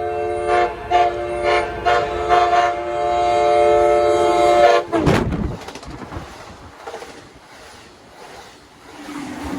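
Amtrak cab car's multi-note horn sounding in short blasts and then a long held blast as the train passes at high speed. About five seconds in the horn stops with a sudden loud rush of air as the cab goes by, followed by the rumble of the passing cars fading away.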